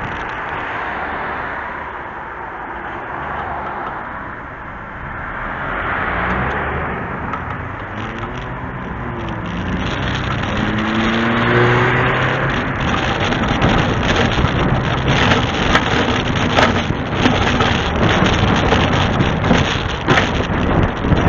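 Scania truck's diesel engine pulling, its pitch rising a few times in the middle, with road and wind noise building louder through the second half.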